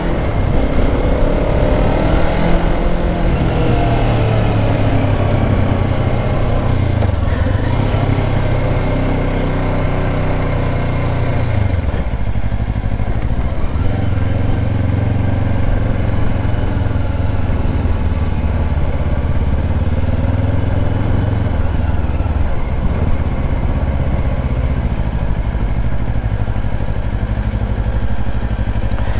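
2024 Kawasaki Ninja 500's parallel-twin engine running at riding speed, its note dropping briefly about twelve seconds in and picking up again two seconds later, with strong wind rushing over the microphone.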